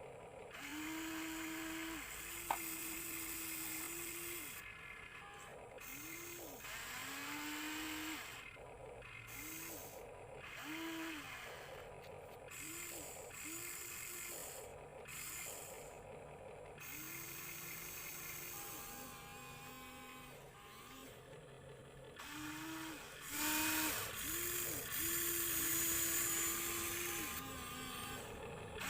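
Small electric gear motors of remote-control toy construction vehicles whirring in short runs, over and over. Each run rises in pitch as it starts, holds a steady whine and then stops.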